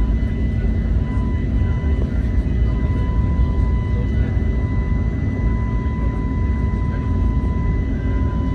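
Steady cabin noise inside an Airbus A321neo: a constant low rumble of engine and airflow, with a thin, steady high whine running over it.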